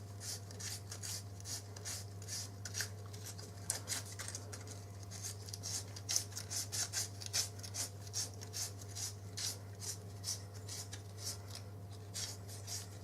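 Sandpaper strip being twisted round inside a tight rear guide, a scratchy rubbing in quick repeated strokes, about three a second. The guide is being sanded out to ease its tight fit on the cylinder. A steady low hum runs underneath.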